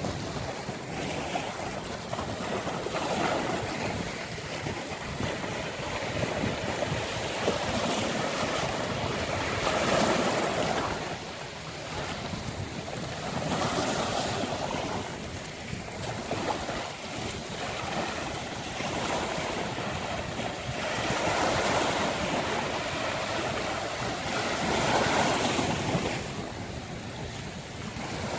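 Ocean waves breaking and washing up a beach, the surf swelling and easing every few seconds, with wind buffeting the microphone.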